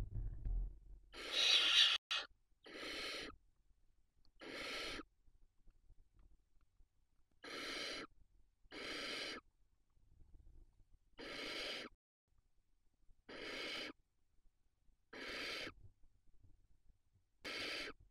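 Barn owl nestling giving rasping, hissing begging calls, about nine in a row, each under a second long and repeated every second or two, the second one the loudest. A brief low rumble sounds right at the start.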